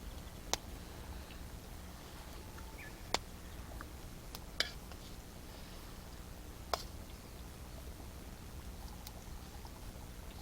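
Wood campfire burning, with four sharp crackling pops spaced irregularly over a steady low background noise.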